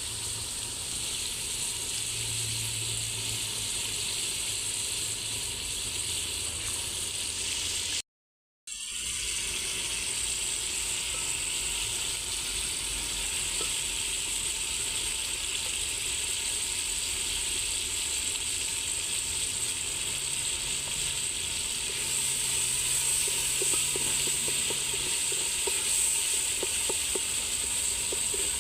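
Food sizzling in a pan: a steady hiss with faint crackles near the end, cut off briefly about eight seconds in.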